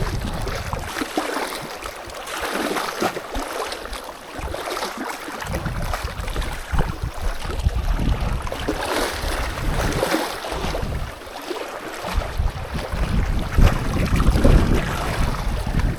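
Strong wind buffeting the microphone in gusts, low rumbling blasts that come and go over a steady hiss of wind and water.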